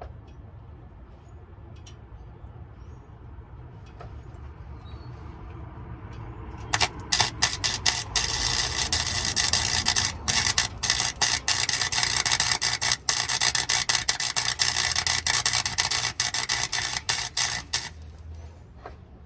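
Electric arc welder crackling and sizzling as a bead is run on a truck exhaust pipe. It starts about seven seconds in with a few sputtering starts, then runs steadily with brief breaks and stops a little before the end. A low hum sits underneath throughout.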